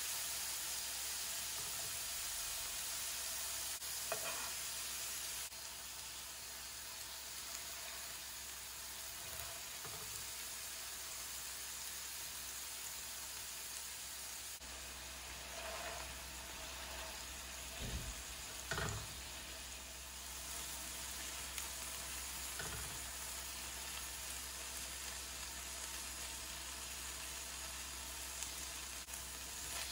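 Beef burger patties sizzling steadily as they fry in oil in a flat pan, with a few brief knocks and scrapes of a metal slotted spatula against the pan.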